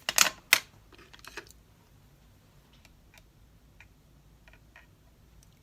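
Two quick spritzes from a spray bottle of gold mist, the first longer, right at the start, followed by a few faint light clicks and taps.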